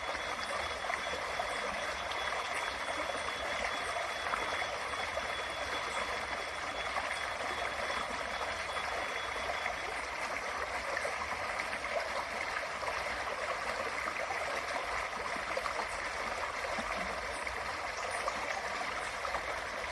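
Small creek running, a steady, even babble of flowing water. A faint high, steady tone sits above it and stops about halfway through.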